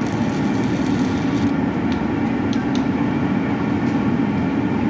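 Steady low mechanical rumble. A high crackling hiss over it stops about a second and a half in, and a few short ticks follow.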